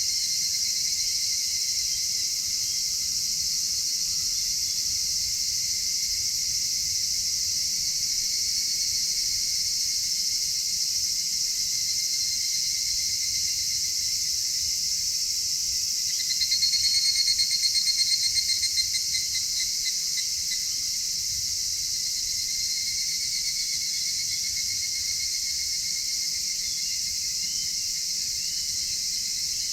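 Dense, steady chorus of crickets and other night insects trilling. About halfway through, one louder, rapidly pulsing trill rises above the chorus for a few seconds.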